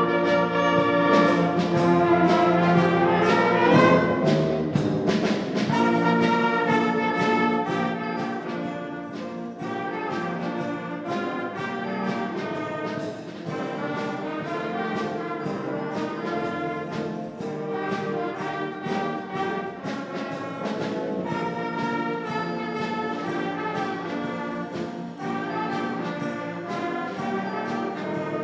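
Brass and band music playing, with trumpets and trombones over a steady beat; louder in the first few seconds.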